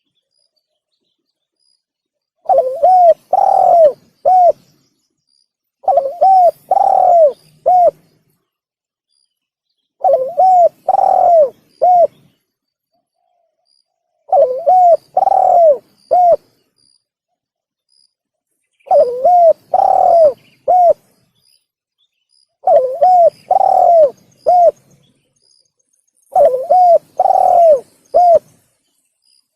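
Spotted dove (tekukur) call: a short phrase of several coos with a longer, drawn-out note in the middle, repeated seven times about every four seconds with dead silence between. It is a lure call for drawing in doves.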